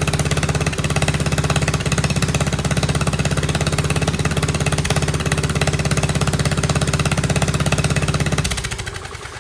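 Gasoline engine on a test stand running steadily with a fast, even firing beat, then shut off about eight and a half seconds in and winding down to a stop.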